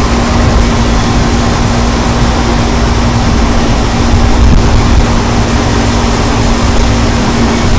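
Strong wind buffeting the microphone: a loud, steady rushing noise with a heavy low rumble, and a faint steady hum underneath.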